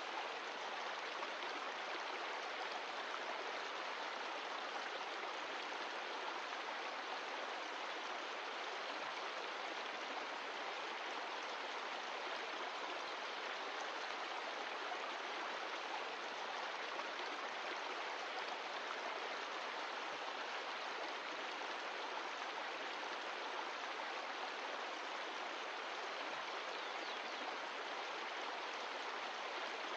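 A mountain stream flowing with a steady, unbroken rush of water.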